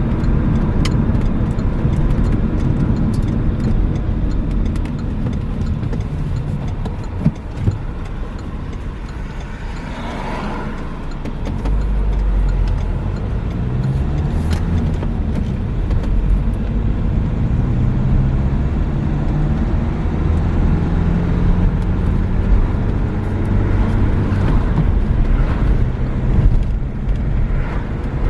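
Renault Megane III on the move: engine running under road noise, its pitch climbing and dropping repeatedly in the second half as it accelerates and changes gear. Two short sharp knocks come about seven seconds in.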